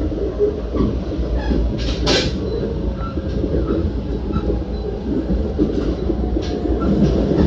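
JR Central limited express Shinano, a 383-series electric train, running on the line: a steady low rumble of wheels on track, with a brief hiss about two seconds in.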